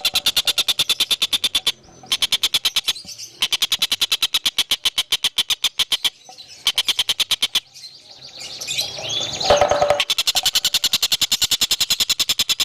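A bird singing a fast, even trill of about fifteen pulses a second, broken by a few short pauses. Between about 8 and 10 s in it breaks into a loud run of varied, gliding whistled notes before the trill resumes.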